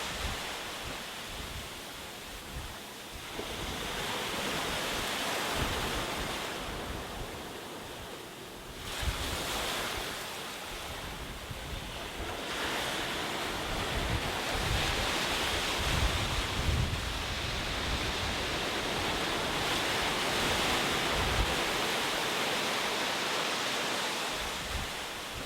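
Ocean surf: waves breaking and washing ashore in long swells that rise and fall over several seconds, with wind gusting on the microphone.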